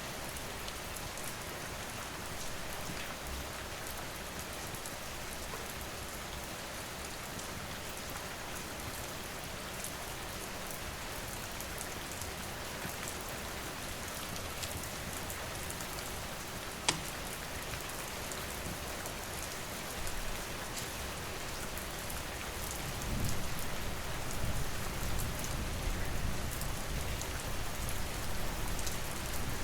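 Steady rain falling, mixed with scattered sharp crackles and ticks from a wood fire, and one louder snap a little past halfway. A low rumble swells in over the last several seconds.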